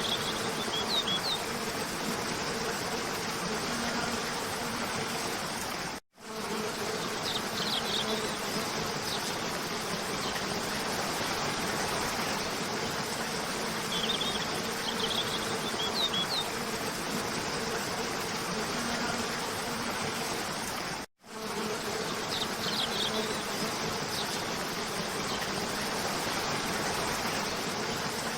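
Waterfall rushing steadily, with songbirds chirping in short high bursts every few seconds and a low steady buzz underneath. The sound cuts out for an instant twice, about fifteen seconds apart, where the recording loops.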